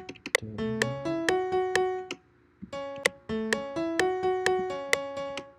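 Dry sampled upright piano playing a short melody phrase in D major, looped: the phrase plays, stops for about half a second, then plays again. A few sharp clicks fall just before each phrase.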